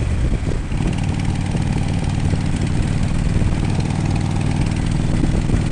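Harley-Davidson Road King's V-twin engine running steadily under way, with a rush of wind.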